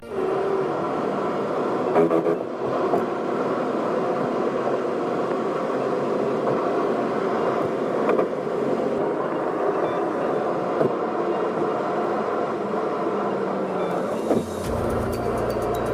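Steady road and engine noise of a car being driven, heard from inside the cabin, with a few light knocks. Near the end a low, steady musical bass line starts.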